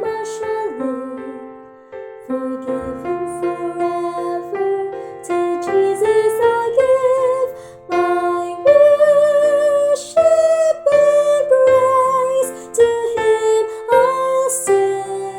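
Piano-led instrumental music: an accompaniment of struck keyboard notes, with a wavering melody line above it from about six seconds in.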